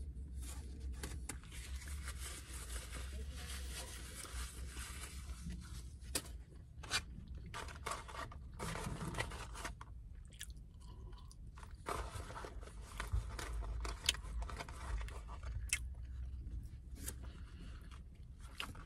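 A person chewing a mouthful of hamburger, then French fries, with a few sharp clicks scattered through, over a low steady hum.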